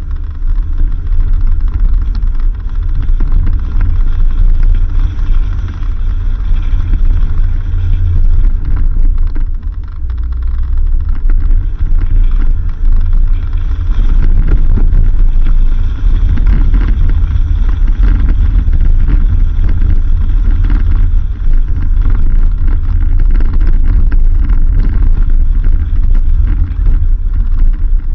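Vehicle driving on a dirt road: a loud, steady low rumble.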